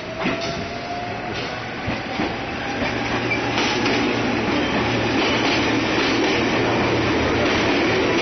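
A train passing close by on the rails, its rumble building over the first few seconds and then holding steady and loud.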